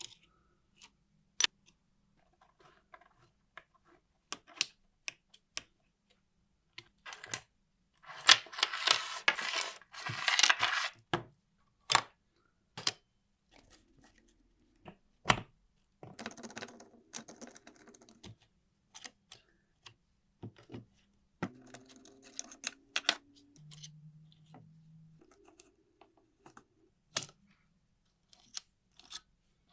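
Small metal parts of a mechanical calculator clicking and tapping as they are handled and set down, in scattered single knocks. About a third of the way in comes a few seconds of dense scraping noise.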